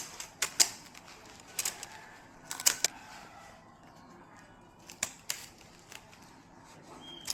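A dozen or so sharp clicks and clacks of hard objects being handled, irregularly spaced, with a quieter gap of about two seconds in the middle.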